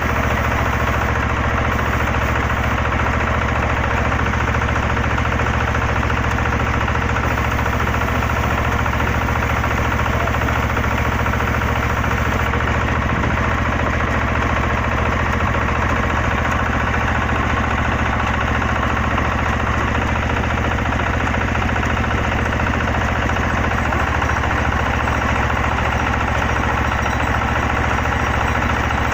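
Engine of an XY-3 water well drilling rig running steadily at an even speed, with a low hum and no change in pitch or level.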